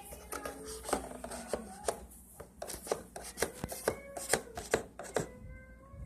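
Irregular clicks and knocks, like a homemade toy truck being handled and rolled about, with faint squeaky tones in between.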